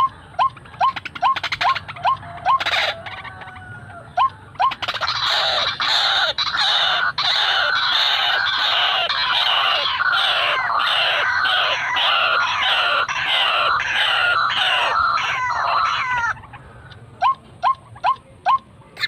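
White-breasted waterhen calling: a run of short rising notes about three a second, then from about five seconds a loud, harsh, rhythmic croaking series lasting around eleven seconds, after which the short notes resume.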